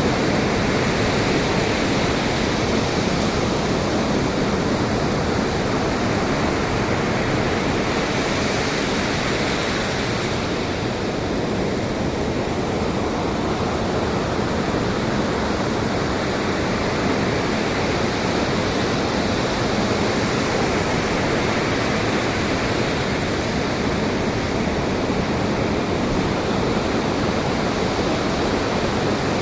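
Pacific Ocean surf washing steadily, with wind, in a dense, continuous hiss that swells slightly in level.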